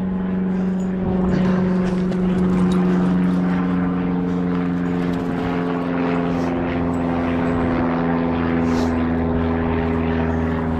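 A steady engine drone with several held tones whose pitch drifts slowly, like a motor passing at a distance.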